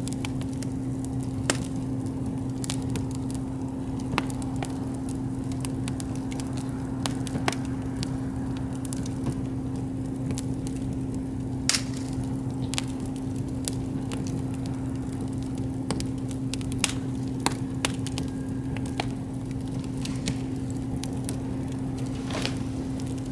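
Wood campfire crackling, with irregular sharp snaps and pops of burning wood over a steady low hum.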